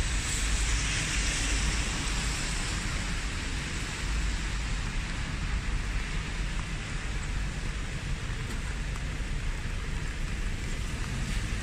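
Steady rain falling on a wet street, an even hiss with a low rumble underneath.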